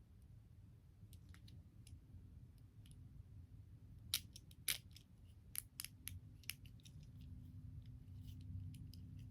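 Short plastic clicks of a fidget controller toy's buttons being pressed, a few faint ones at first, then a cluster of sharper clicks about four to seven seconds in.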